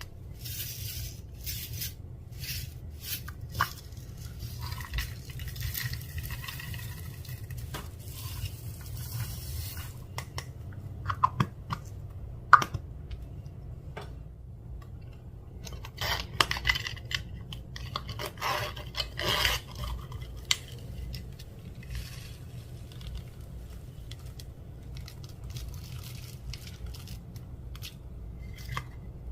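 Clear slime being worked and squished, with sticky clicks, crackles and squelches that come in clusters, busiest around the middle and again a little later, over a steady low hum.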